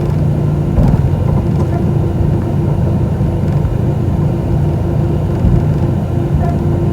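Cabin noise of an Airbus A320-212 on the ground before takeoff: a steady low rumble and hum from its CFM56 engines at idle, with a short bump about a second in.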